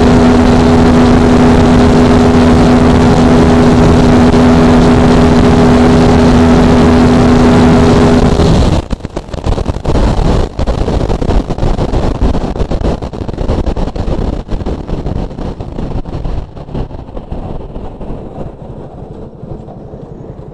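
Yamaha R15 V3's 155 cc single-cylinder engine held at steady high revs at full throttle, loud and unchanging. About nine seconds in the throttle is shut and the sound drops off abruptly into an uneven, stuttering run-down that fades as the bike slows.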